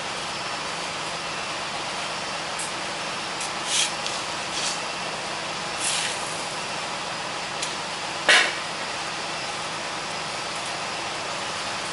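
Road construction vehicles and machinery running steadily, with four short hisses, the last and loudest a little past two-thirds of the way in.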